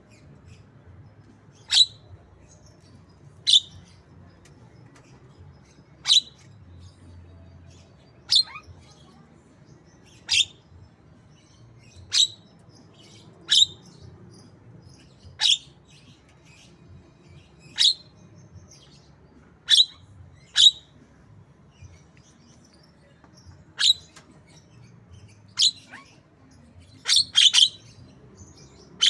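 Javan myna (jalak kebo) giving short, sharp, downward-sweeping chirps about every two seconds, with a quick double call near the end, in the manner of a white-rumped shama's call.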